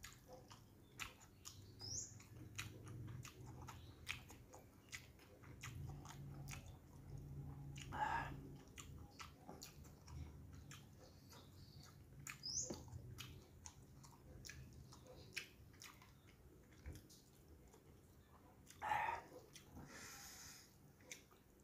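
Faint close-up chewing of fried fish, rice and noodles, with many small wet mouth clicks and lip smacks.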